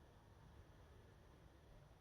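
Near silence: a faint, even low rumble and hiss of background noise.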